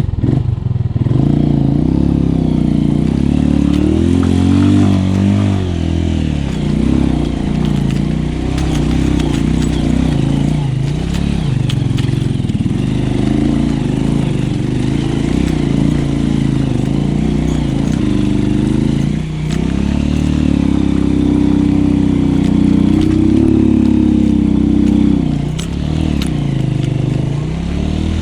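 Small, low-powered motorcycle engine running as the bike is ridden, its pitch rising and falling with the throttle and dropping briefly a couple of times in the later part.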